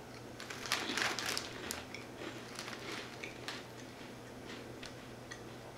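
Faint crackling and clicking from eating crunchy Thai Rings chips: chewing close to the microphone and a crinkly snack packet being handled, densest about half a second to a second and a half in, then sparse ticks.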